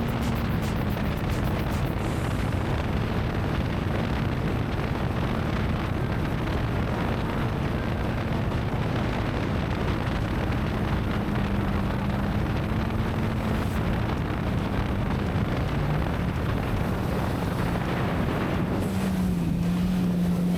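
Jet ski engine running steadily under way, with wind buffeting the microphone and water rushing. The engine's pitch drops slightly a little before the end.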